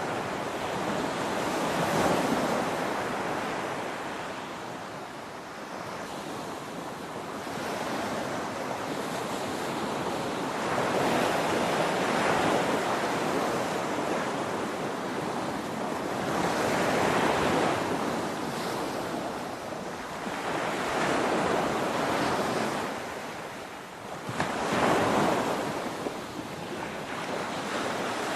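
Ocean waves breaking on a shore, a continuous rush of surf that swells and recedes every few seconds, with about five larger breakers.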